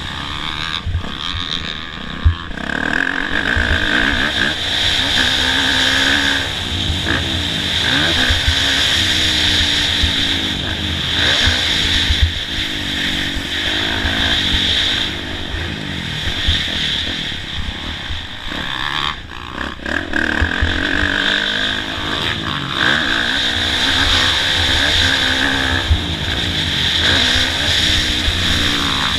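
Kawasaki KX450F single-cylinder four-stroke motocross bike being ridden hard, its engine revving up and falling back over and over as the rider works the throttle and gears around the track. There is a short drop in the engine noise about two-thirds of the way through.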